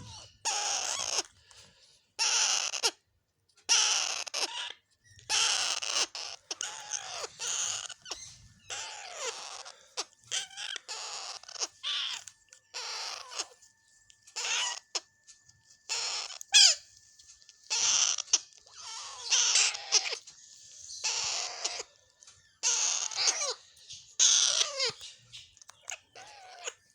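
Alexandrine parakeets calling again and again in harsh, rasping cries, each under a second long with short pauses between.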